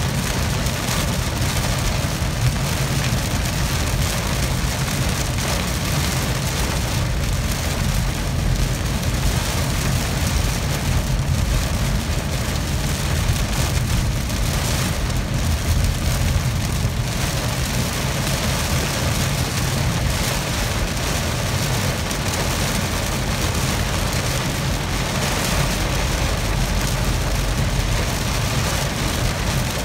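Heavy rain beating on a car's roof and windscreen, heard from inside the moving car, over a steady low rumble of the car on the wet road.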